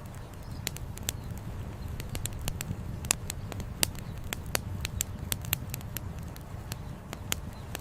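Wood campfire crackling: sharp, irregular pops and snaps, several a second, over a steady low rumble.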